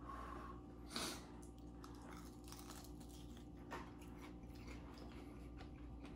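A man biting into and chewing a pan-fried steak and Gruyère wonton. The mouth sounds are faint, with one short, louder noise about a second in as he takes the bite.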